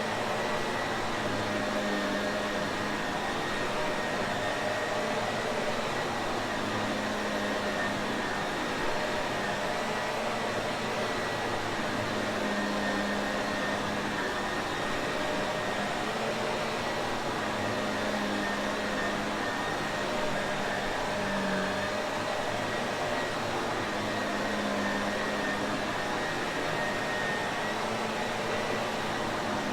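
Shark Navigator vacuum cleaner running steadily: an even rushing motor noise with a faint constant whine, unchanging throughout.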